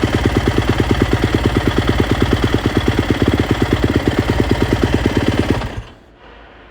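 Yamaha YZ250F's single-cylinder four-stroke engine idling with a fast, even pulse, then shut off near the end so the sound drops away suddenly.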